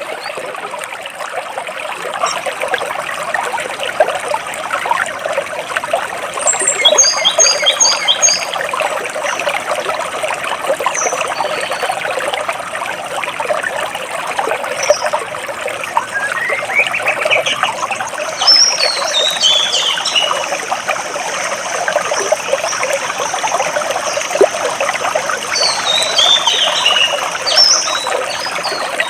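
Water babbling and trickling steadily between large rocks, with small birds chirping at intervals above it, including a few quick runs of falling notes.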